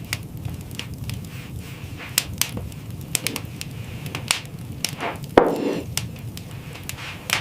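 Irregular sharp cracks and knocks over a steady low rumble, with one louder knock about five and a half seconds in.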